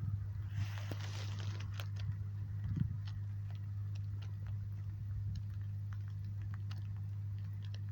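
Rain pattering and dripping as scattered irregular clicks over a steady low hum, with a brief hiss about a second in.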